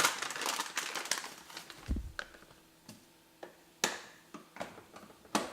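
Crinkly plastic packaging of a dishwasher detergent pack being handled, followed by a dull thump and several sharp clicks, the loudest about four seconds in and another near the end.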